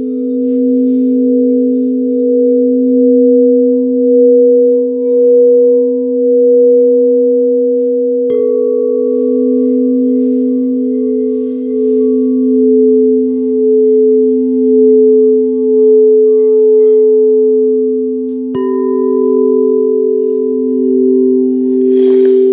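Singing bowls ringing with steady, sustained tones that waver slowly as they beat against each other. A bowl is struck about eight seconds in and another about eighteen seconds in, each adding a higher ringing tone. A brief noisy sound comes near the end.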